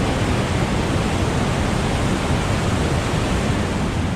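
Whitewater of a large river rapid rushing loudly and steadily.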